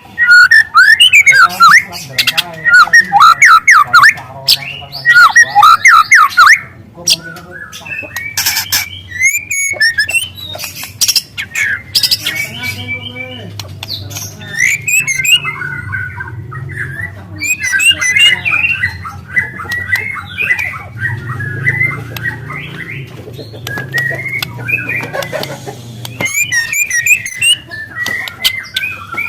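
Young white-rumped shama singing a long, loud song of rapidly changing whistled phrases and fast canary-like trills, loudest in the first six seconds.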